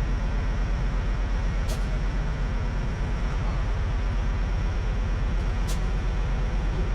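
Semi-truck diesel engine idling, a steady low rumble with a quick even throb, heard from inside the cab. Two faint ticks sound about two seconds in and near the end.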